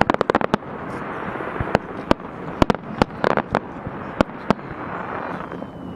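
Fireworks display: a quick volley of sharp bangs at the start, then single bangs every half second or so over a continuous wash of noise, with a denser patch of crackle about three seconds in.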